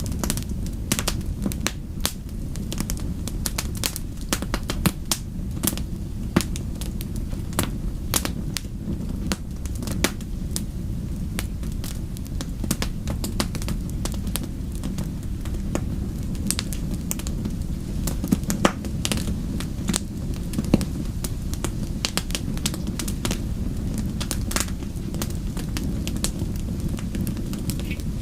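Wood fire burning in a fireplace, crackling with frequent irregular sharp pops over a steady low rumble of flames.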